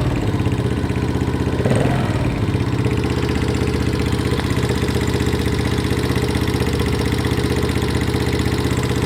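Viper motorcycle engine idling with a rhythmic valve tapping, with a short throttle blip about two seconds in. The tapping is the valve knock the owner is showing, a sign of excess valve clearance.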